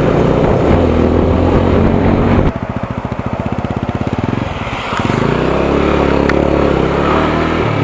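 Single-cylinder motorcycle engine running. About two and a half seconds in it drops to a low, pulsing idle as the bike is put into neutral, then picks up again about five seconds in. The fuel tank is nearly empty.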